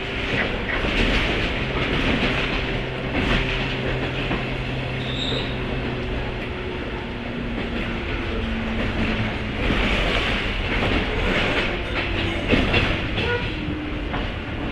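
Running sound inside a JR 103 series motor car (MoHa 102) in motion. The MT55 traction motors and gearing hum steadily under the rumble of the wheels, with pitch shifts in the hum and wheel knocks over rail joints at about 1, 2, 3, 10 and 12.5 seconds. A brief high wheel squeal comes about five seconds in.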